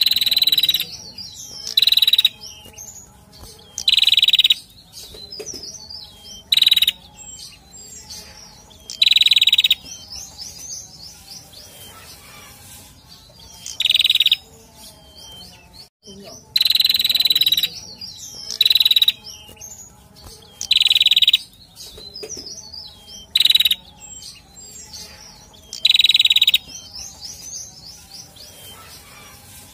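Male prenjak calling over and over: a short, loud, harsh call every two seconds or so, with fainter quick chirps in between.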